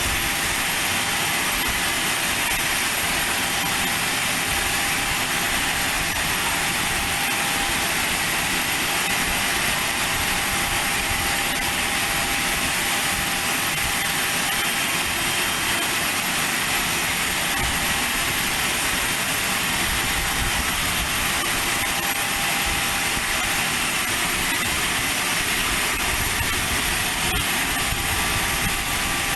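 Aircraft engine running steadily at an airport: an even, unchanging rush with a faint steady whine, at the same level throughout.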